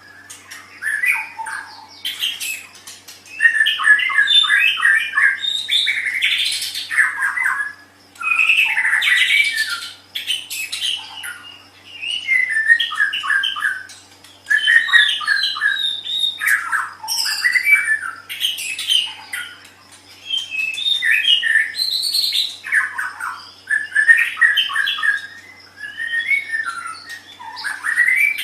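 White-rumped shama (murai batu) singing a loud, varied song of rapid notes in a dozen or so phrases, each a second or two long with short pauses between them. A faint steady low hum lies underneath.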